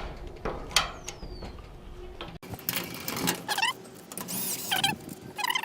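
Clicks and knocks of hand tools refitting a garage door's bottom roller bracket. Then, about halfway through, the garage door running on its opener with a series of short, high squeaks.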